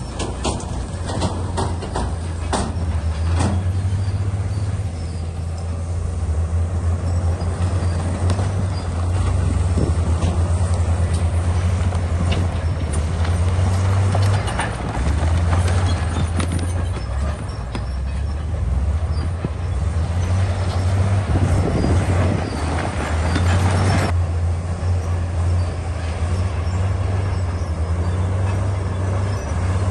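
Bulldozer's diesel engine running steadily with a deep drone, with sharp knocks in the first few seconds and a louder rush of noise that cuts off suddenly about 24 seconds in.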